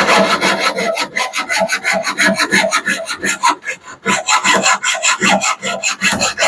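Hand hacksaw cutting with quick back-and-forth strokes, several a second, working through the last of the cut.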